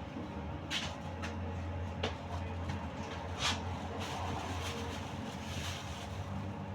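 UTTZ-6241.01 trolleybus running, heard from inside the cabin: a steady low hum with four sharp knocks. The strongest knock comes about three and a half seconds in.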